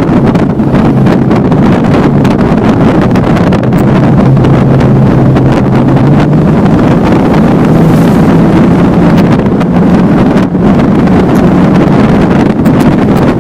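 Motorboat engine running steadily underway, its hum stepping up slightly in pitch about six seconds in, with wind buffeting the microphone.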